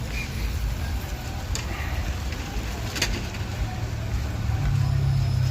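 Low, steady rumble of a motor vehicle's engine, growing louder near the end, with a couple of sharp clicks.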